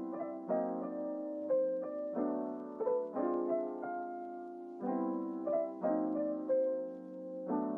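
Background piano music: soft chords struck about once a second, with a simple melody on top.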